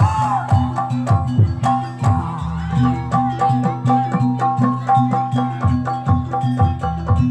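Javanese jaranan accompaniment music: hand drums playing a fast, busy rhythm over repeated steady pitched tones from gong-chimes.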